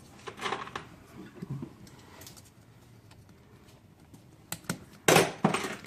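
Light clicks and taps of hand work on small parts under the hood, with a louder scraping burst about five seconds in.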